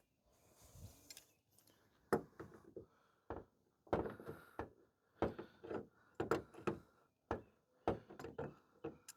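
Damaged front sheet metal of a 2014 Chrysler 200 being worked back into shape by hand: about a dozen irregular knocks and clunks, some close together, with a short ring after each.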